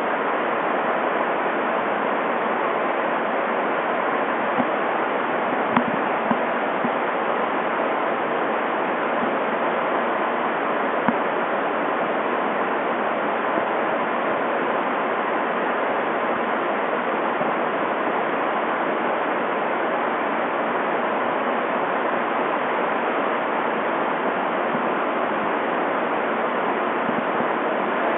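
Steady rushing noise at an even level, with a few faint ticks in the first half.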